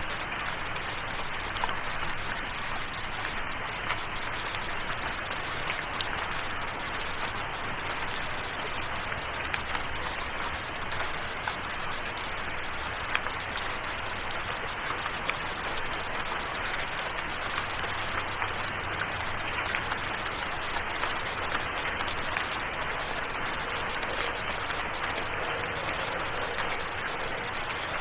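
Steady rain falling, an even hiss of water dotted with many separate drop ticks.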